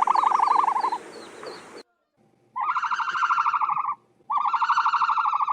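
Ostrich giving three rapid trilled calls, each a little over a second long and held at one pitch; faint high chirps of another bird run under the first.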